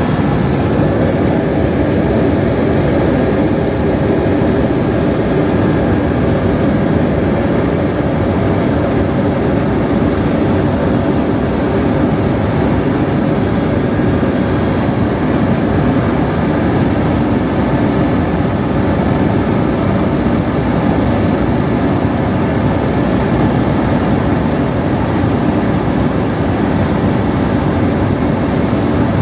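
Helicopter in flight: steady, unbroken engine and rotor noise.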